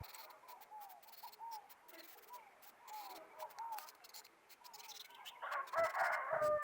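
Birds calling: short, repeated calls throughout, then one louder, longer call of about a second near the end.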